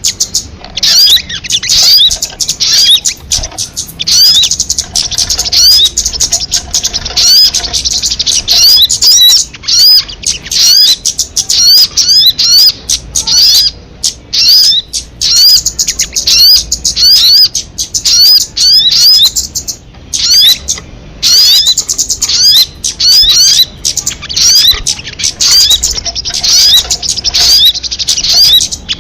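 Recording of a sogon (crimson sunbird) singing: long, rapid runs of high, upward-sweeping chirps, broken by a few brief pauses.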